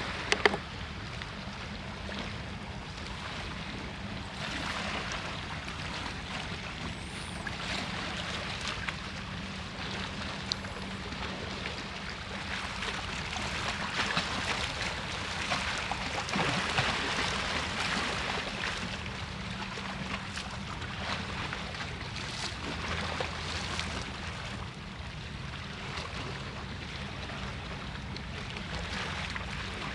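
Outdoor city street ambience: a continuous rushing noise over a steady low hum, with a couple of sharp clicks just after the start and a swell in level through the middle.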